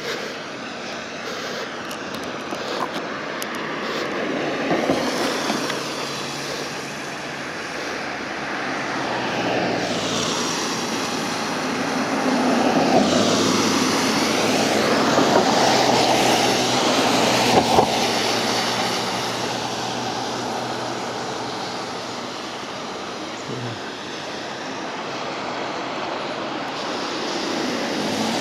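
Aircraft flying over: a rushing engine noise that slowly swells to its loudest about halfway through, then gradually fades, with a couple of brief sharp knocks near its peak.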